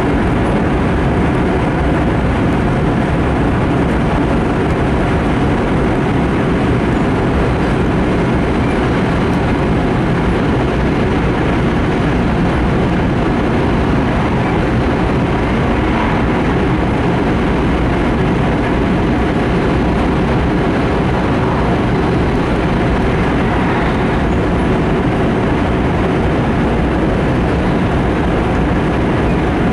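Steady running noise inside the passenger cabin of an E5 series Shinkansen travelling at speed through a tunnel.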